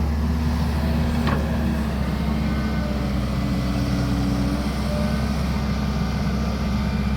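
Cat E120B excavator's diesel engine running steadily under work, with a higher steady tone joining for a few seconds midway. A brief sharp click about a second in.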